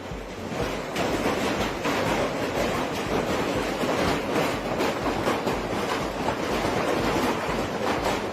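Heavy hail pelting down: a dense, steady clatter of many hailstones striking hard surfaces over a continuous roar of falling hail and rain.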